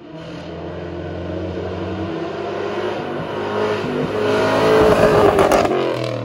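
A car's engine revving hard as the car drives past, growing louder to a peak about five seconds in, then fading.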